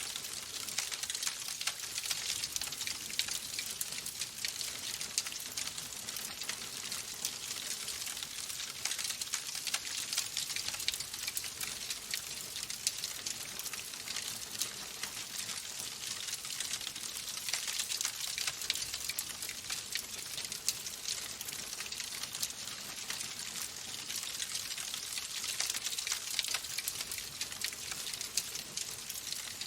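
Wood fire burning in a fireplace, crackling steadily: a dense run of small snaps and pops over a soft hiss.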